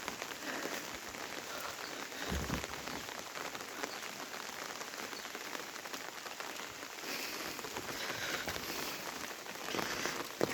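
Monsoon rain falling steadily, a dense patter of drops.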